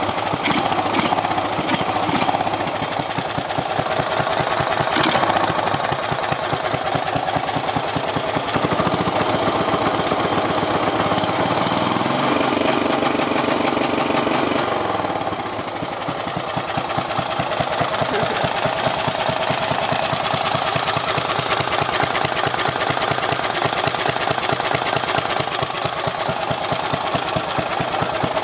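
Craftsman lawn tractor's 12 hp Briggs & Stratton 465 cc single-cylinder engine running with a rapid, even firing beat. The note changes for a few seconds about halfway through, then settles back.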